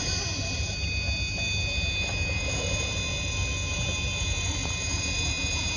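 Radio-controlled rock crawler's electric motor and gears whining steadily as it crawls, several high tones held level, over a steady low rumble.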